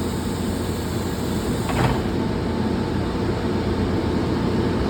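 Steady low rumble of running machinery, with a brief click about two seconds in.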